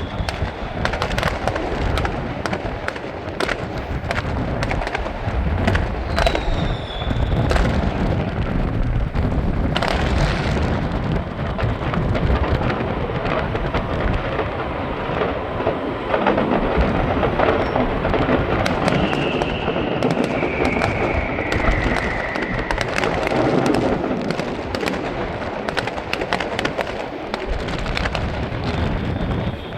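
Aerial fireworks bursting in a dense, continuous barrage of booms and crackling, with a couple of falling whistles rising above the bangs.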